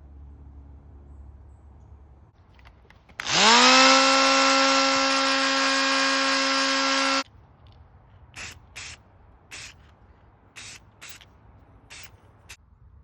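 A small electric power tool, drill-like, spins up to a steady whine about three seconds in, runs for about four seconds and cuts off sharply. Then come about seven short bursts of hiss.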